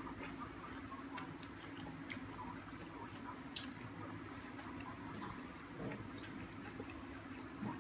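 Faint chewing and small wet mouth clicks of a person eating a mouthful of spicy pounded salad and rice, over a steady low hum.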